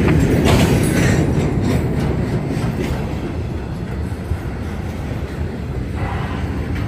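Norfolk Southern intermodal freight train rolling past with a steady low rumble, its wheels clacking over the rail joints a few times in the first two seconds.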